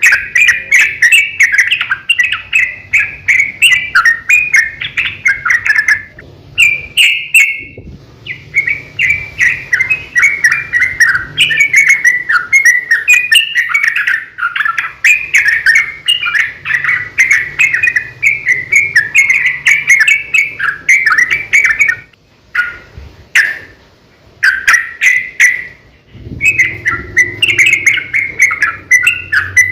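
Yellow-vented bulbul song in long, rapid runs of chattering notes, the fast 'ropel' delivery used as a lure to get other bulbuls to sing. The song breaks off briefly about six seconds in and again for a few seconds past the twenty-second mark.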